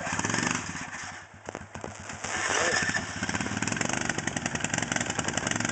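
Off-road vehicle's engine revving in thick mud: it falls off about a second in, then revs up again, louder and higher, from about two and a half seconds in.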